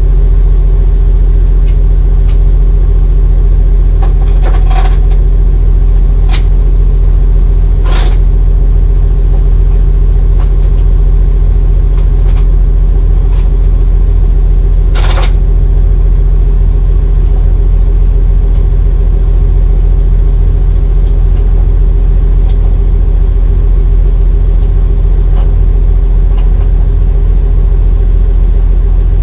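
Heavy diesel engine running steadily and loud at a constant pitch, with a handful of sharp knocks over it, the loudest about halfway through.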